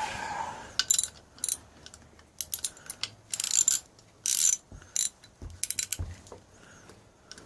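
Hand ratchet wrench clicking in short, quick bursts of strokes, with a few dull knocks in between.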